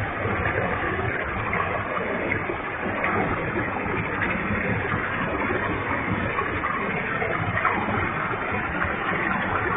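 Waterfall with a heavy flow of water: a steady, even rush of falling water.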